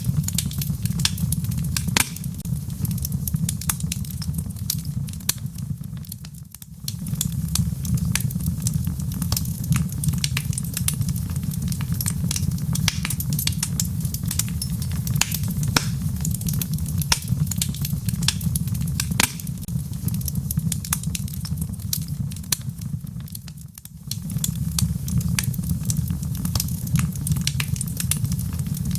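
Wood fire burning in a fireplace: logs crackling with many sharp pops over a steady low rumble of the flames. The rumble dips briefly twice.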